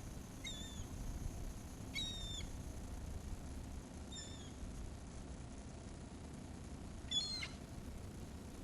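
Gulls calling: four short, high calls spread over several seconds, the last the loudest and harshest.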